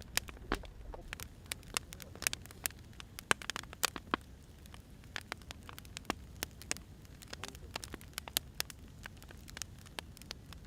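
Firewood fire crackling: irregular sharp pops and snaps, some louder than others, over a low, steady burning hiss.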